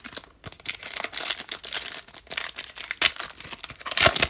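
A trading-card pack's foil wrapper crinkling and tearing as it is opened by hand, a dense crackle of sharp clicks.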